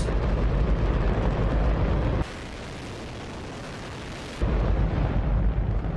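Hydrogen-oxygen rocket engine on a static test firing: a loud, steady roar with a deep rumble. About two seconds in, the rumble drops away and the sound is thinner and quieter for about two seconds, then the full roar returns.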